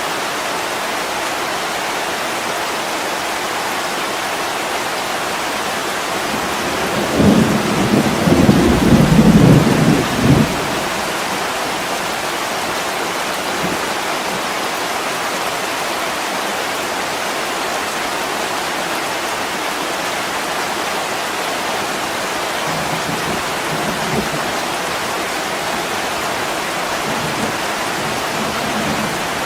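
Heavy rain pouring steadily on an attic window, an even hiss throughout. A rumble of thunder swells about a quarter of the way in and lasts about three seconds. Fainter low rumbles come later.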